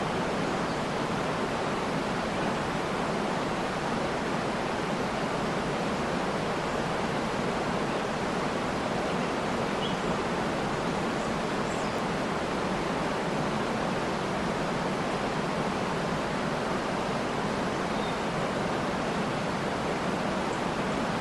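Waterfall rushing, a steady even roar of falling water, with a few faint short bird chirps in the background.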